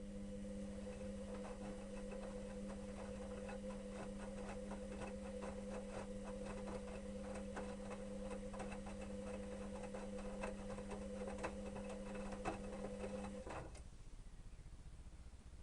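Electrolux EWS 1045 washing machine turning its drum during the wash: a steady motor hum with many small clicks and knocks, which stops about 14 seconds in.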